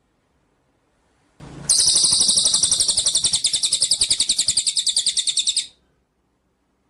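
A songbird's rapid high-pitched trill, about a dozen even notes a second, held for about four seconds and then cut off; a recorded tutor call (masteran) for training caged songbirds.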